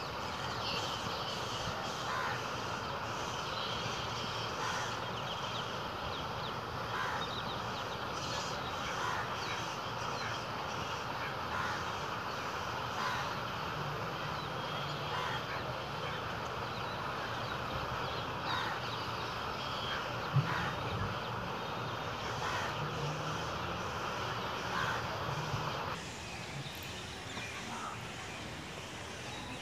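Birds calling in short calls every second or two over a steady outdoor hiss. Near the end the hiss drops and the scene becomes quieter.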